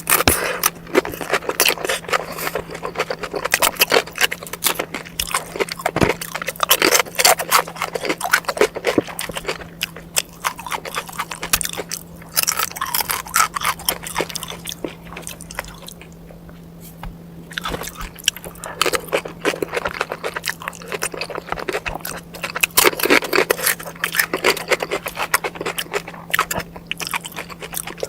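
Close-miked eating sounds: continuous chewing and crunching with dense wet clicks and scrapes.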